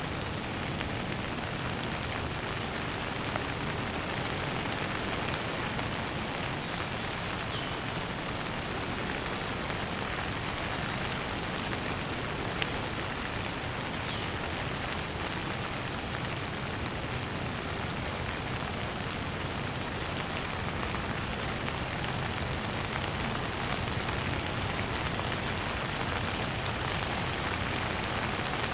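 Steady rain falling, with a few faint, short high chirps of birds now and then.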